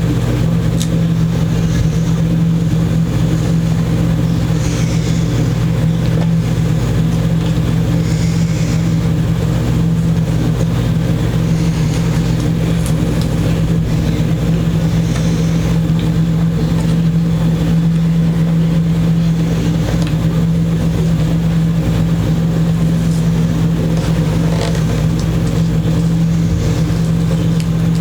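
A steady, loud machine hum with a low drone that does not change.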